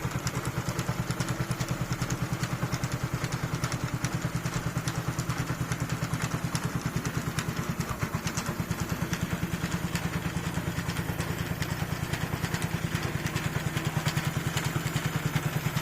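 A 1984 Honda F600 tiller's single-cylinder 5.5 HP engine, just rebuilt, running steadily with an even, rapid beat. It gets a little louder near the end.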